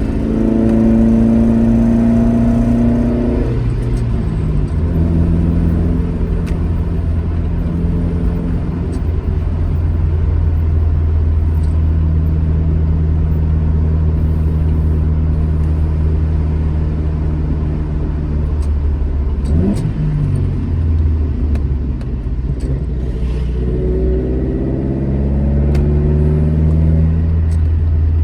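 Alfa Romeo GT Junior's twin-cam four-cylinder engine pulling the car along. The revs run high for the first few seconds and drop about four seconds in. It then runs steadily with a brief dip around the twenty-second mark, and the revs climb again near the end before falling back.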